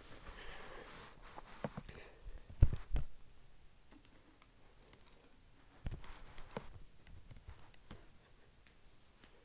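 Small hard knocks and clicks of die-cast toy monster trucks being handled and set down on a track, the loudest two knocks about two and a half to three seconds in and two more about six seconds in.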